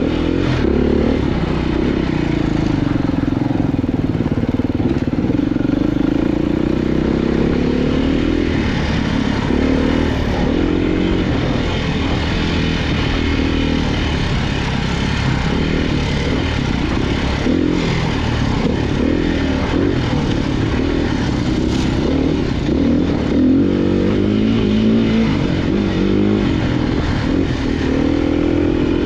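Off-road motorcycle engine running loud and unbroken, its pitch rising and falling repeatedly as the throttle is worked on and off over rough trail, with scattered clatter and knocks.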